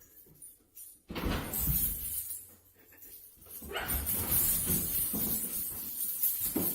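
A dog making noises in two stretches: one about a second in, and a longer one from about four seconds in.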